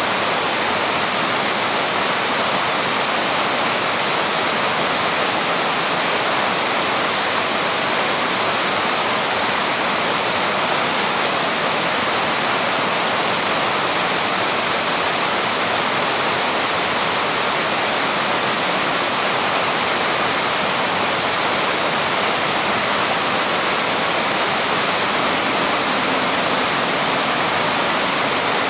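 Waterfall: water pouring and splashing over rock in a steady, unbroken rush.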